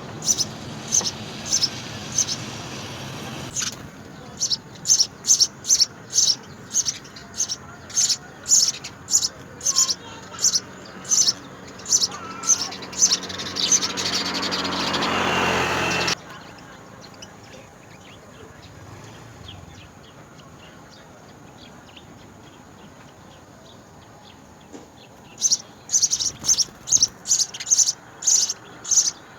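House sparrow chirping over and over, short high chirps about two a second, with a rushing noise swelling beneath them before they break off about halfway through; the chirping starts again near the end.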